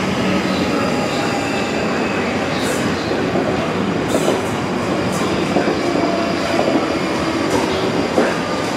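A train running along the rails with a steady rumble of wheels on track, a few brief sharp clicks and a faint steady high whine.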